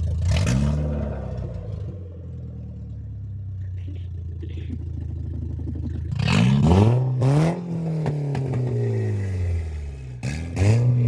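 2000 Volkswagen Beetle engine, its catalytic converter removed, revved from idle three times, each rev rising and falling back. The later revs come with sharp popping from the exhaust.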